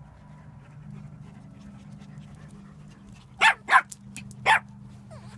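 A dog giving three short, sharp barks in the second half, two in quick succession and then one more, over a steady low hum.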